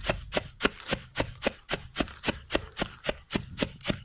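Roasted barley grains being pounded by hand to loosen their husks: a steady run of sharp strikes, about three or four a second.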